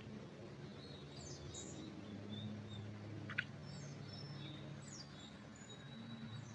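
Small birds chirping and twittering faintly in a pine forest, with short high calls scattered throughout. Under them is a low steady hum, and there is one sharp click about halfway through.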